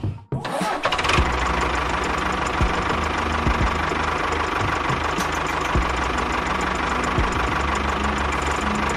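A small motor running steadily, with a steady whine and scattered light clicks. It cuts in after a brief break just after the start.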